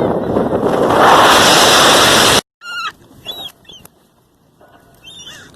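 A loud, steady rushing noise that cuts off suddenly about two and a half seconds in, followed by seagulls giving several short calls.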